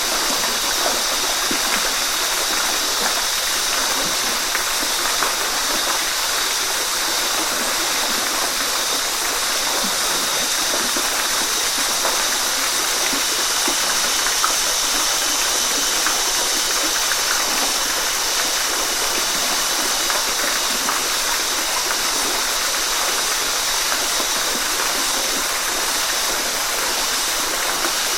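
Waterfall: a steady rush of falling and splashing water, an even hiss that runs without pause.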